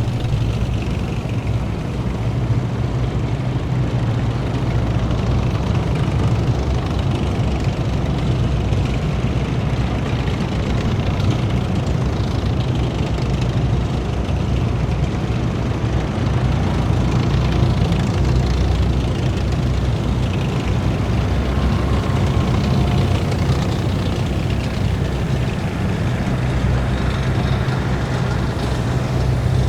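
Heavy military vehicles' engines running steadily in a column, a deep, continuous engine rumble.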